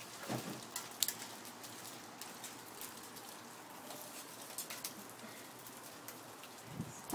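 Heavy rain falling steadily, with scattered sharp ticks of small hailstones striking, the loudest about a second in.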